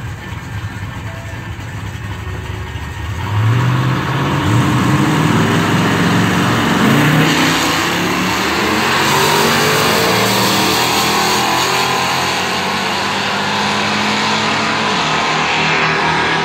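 Oldsmobile Cutlass drag car idling at the start line, then launching about three seconds in and accelerating hard down the strip. The engine pitch climbs and drops back several times as it shifts up through the gears.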